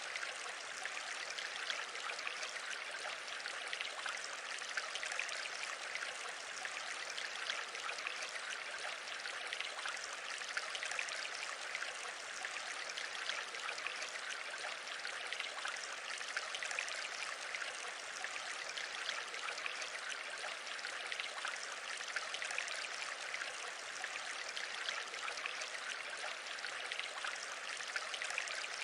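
Steady, even rushing noise, unchanging throughout, with no speech or music.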